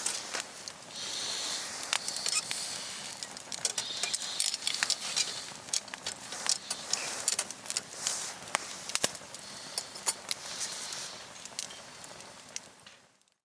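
Wood fire crackling, with many irregular sharp pops and snaps over a soft hiss, fading out near the end.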